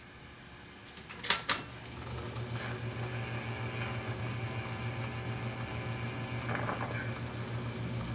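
Two sharp clicks of a 1940s wire recorder's controls being switched, then the machine running with a steady hum as the wire plays back.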